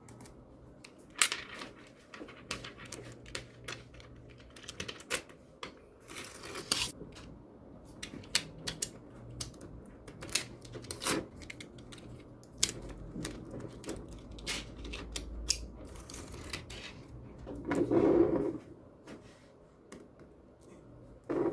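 Small magnetic balls clicking and snapping together as they are handled, in irregular sharp clicks throughout, with a louder rubbing handling noise lasting about a second near the end.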